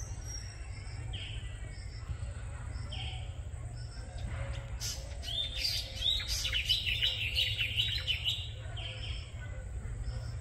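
Birds calling: a short chirp repeated every second or two, and a louder burst of rapid chattering song from about five to eight and a half seconds in, over a steady low background rumble.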